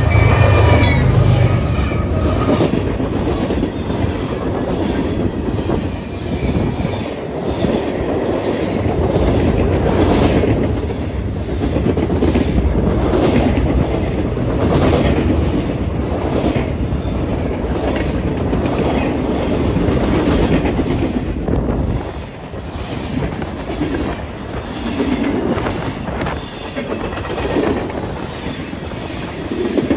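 Freight train passing close by: the diesel locomotives' engines rumble deeply as the lead units go by, then a long string of hopper and tank cars rolls past with the wheels clicking rhythmically over the rail joints.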